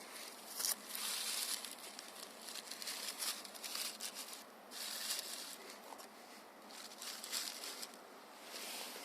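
Dry birch bark and fine kindling rustling and crinkling in irregular bursts as they are handled and arranged on a fire lay.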